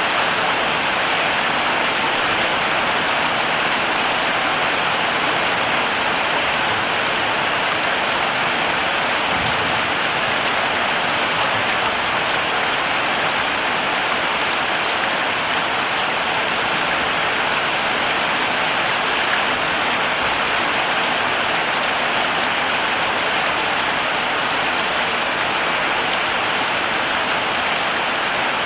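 Heavy rain falling steadily, an even hiss of many drops on foliage and ground.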